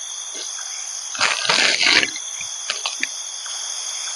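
Steady high chirring of crickets and other insects, with a louder rustling noise about a second in that lasts under a second, followed by a few light clicks.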